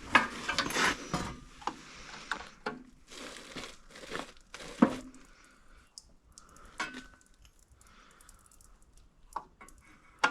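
Hands and tools working at a line on a snowblower: scattered clicks, knocks and rustling as the stiff line is worked at a fitting, with a sharp knock about halfway through.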